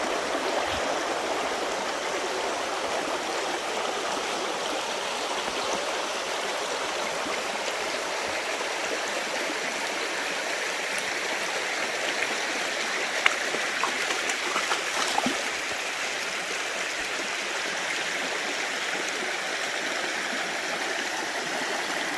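Rocky creek running over stones, a steady rush of water. A few light knocks sound around the middle.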